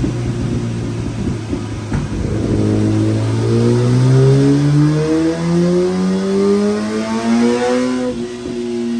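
Inline-four superbike engine making a dyno pull: it runs steadily, then the revs climb smoothly and continuously under load for about five seconds, and near the end the throttle closes and the pitch falls back.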